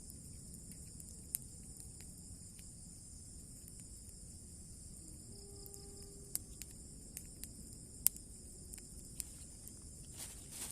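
Steady high-pitched chorus of crickets and other insects, with a few sharp clicks and a brief low tone about halfway through. A rustling starts near the end.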